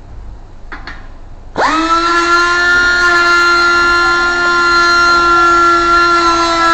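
A metal-cutting tool starts squealing abruptly against steel about a second and a half in while boring a hole out to bearing size. It holds as one loud, steady, high-pitched screech with many overtones, the chatter of the tool in the cut.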